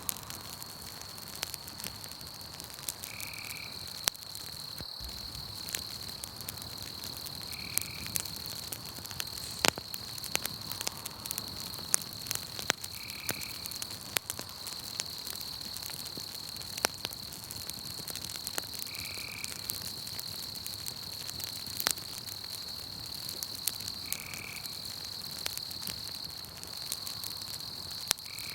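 Campfire crackling with scattered sharp pops, over a steady high-pitched chirring and a short call repeating about every five seconds.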